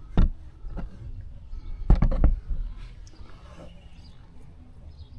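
A few sharp knocks: one just after the start, a lighter one near a second in, and a quick cluster of knocks around two seconds in, over a low rumble.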